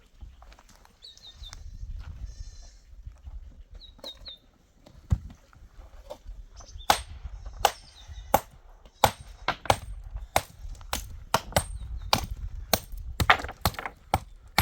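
Livestock bleating a few times, short and high-pitched, then a run of sharp knocks from about six seconds in, coming faster toward the end.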